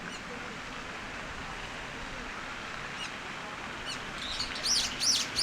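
A songbird chirping: a quick run of three or four loud, high chirps near the end, over a steady background hiss of outdoor ambience.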